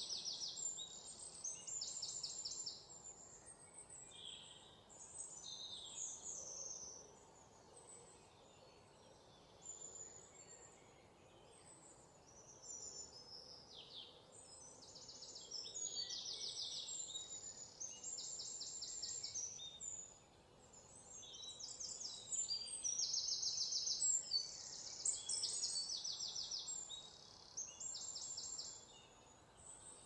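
Wild birds singing and calling: high-pitched rapid trills and chirps that come again and again, with a short lull about a third of the way in, over a faint steady outdoor hiss.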